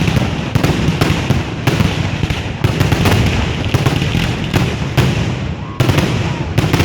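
Fireworks display going off in rapid succession: a continuous barrage of sharp bangs and crackles, several a second, over a steady rumble.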